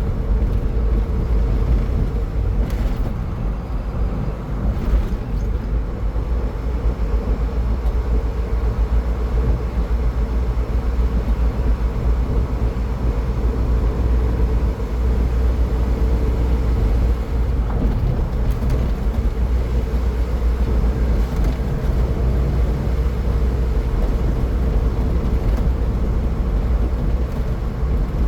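Steady road and tyre noise of a car travelling at highway speed: a low rumble with a faint steady hum.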